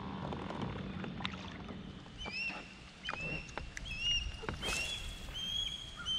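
Kayak on the water: light knocks and handling sounds against the hull, with a short splash-like burst about halfway. From about two seconds in, a bird chirps over and over.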